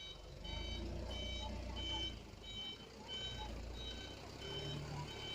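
Truck's reversing alarm beeping steadily, about two short high beeps a second, over the low running of the dump truck's diesel engine as it backs up.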